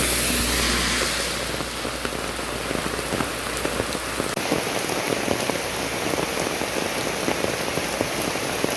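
Steady rain falling, a dense patter of drops on surfaces. A low rumble underneath stops about four seconds in.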